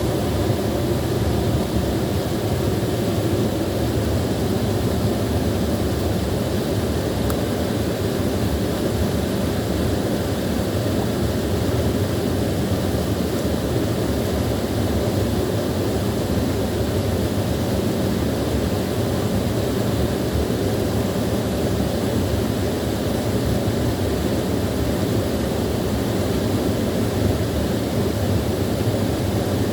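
Small waterfall, water pouring and splashing in a steady low rush.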